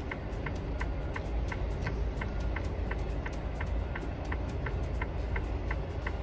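Truck engine idling with a low, steady rumble, and a rapid, even ticking over it, about three ticks a second.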